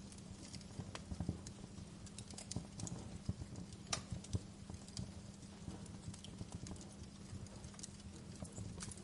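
Fire crackling, with irregular sharp pops and snaps over a steady low rumble of flames; the sharpest pop comes about four seconds in.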